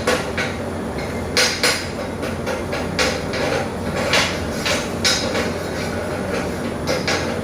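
Steady low machinery hum with scattered sharp metallic knocks and clinks at irregular intervals, typical of work with steel in a welding shop.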